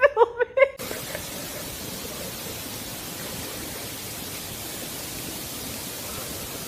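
A few short, quickly rising and falling pitched sounds, then from about a second in a steady, even hiss that does not change.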